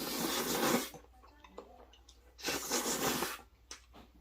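A person chewing a big mouthful of food, with two loud, breathy rushes of air about a second each, one at the start and one about two and a half seconds in, and faint wet chewing clicks between them.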